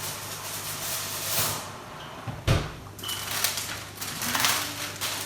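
Kitchen handling sounds: a few short bursts of rustling and one sharp knock about two and a half seconds in, over a low steady hum.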